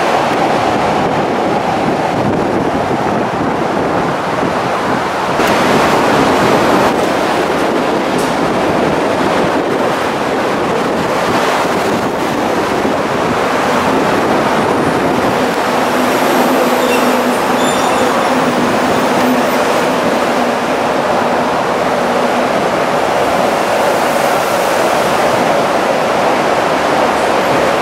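MTR West Rail Line electric multiple-unit train running through an elevated station, a steady loud rumble of wheels on rail. A low hum joins for several seconds past the middle.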